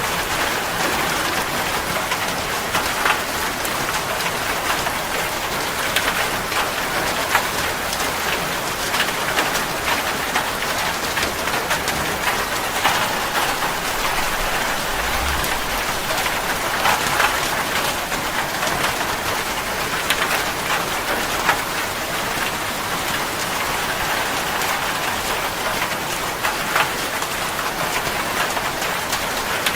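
Steady rain falling on a hard surface, a dense hiss with individual drops pattering through it.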